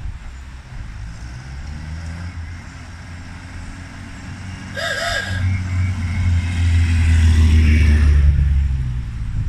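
A 1937 Austin Seven hill-climb special's small four-cylinder engine running as the car drives up and past. The engine note grows louder from about five seconds in, is loudest around seven to eight seconds, then eases off.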